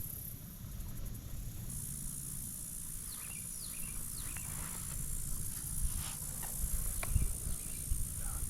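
Insects such as crickets buzzing in a steady high-pitched drone, with a string of short, falling bird calls a few seconds in and again near the end.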